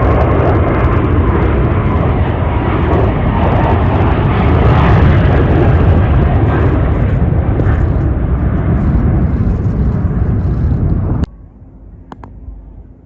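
Jet airliner engines running loud and steady. The sound cuts off abruptly about eleven seconds in, leaving only faint background noise.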